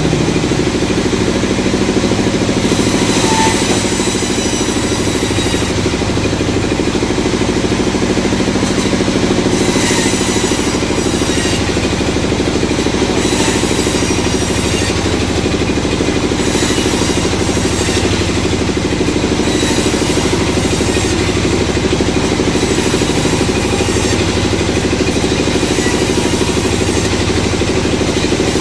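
Sawmill machinery running steadily with an unbroken engine-like drone.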